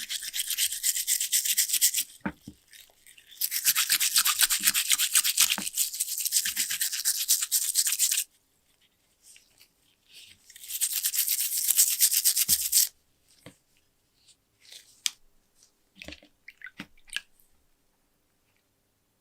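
Rapid, high-pitched abrasive rubbing on a small object, most likely work on the lighter's metal case, in three long bursts. It is followed by scattered light clicks and taps.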